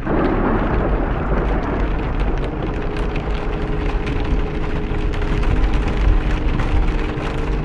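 Heavy storm rain, a loud, steady wash of noise with a constant low rumble and many sharp ticks of drops striking a surface.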